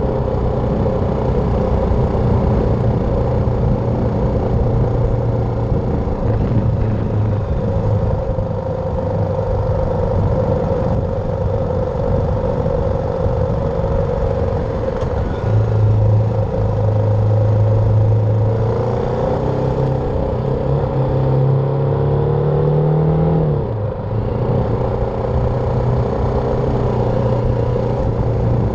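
BMW G310R single-cylinder motorcycle engine running under way at steady revs. In the second half its pitch climbs for about five seconds, then drops suddenly, as at a gear change, and settles again.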